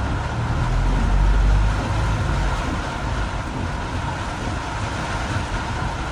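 Steady car and road noise on a road in heavy rain, with a low rumble that is heaviest for the first two seconds and then eases.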